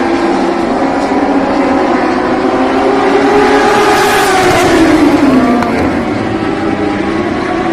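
Motorcycle engine running at speed, its pitch steady at first, then swelling louder about four seconds in and dropping about five seconds in.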